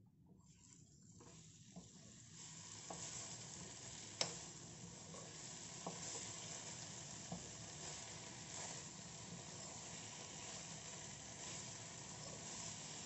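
Cubed potatoes sizzling in oil and spiced masala in a stainless steel kadai while a steel spoon stirs them. The sizzle builds over the first couple of seconds and then holds steady, with occasional sharp clinks of the spoon on the pan, the loudest about four seconds in.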